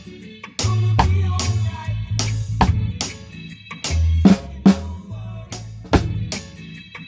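Drum kit playing a reggae beat with rim-clicks on the snare, a hit about every half second, along with the song's bass line.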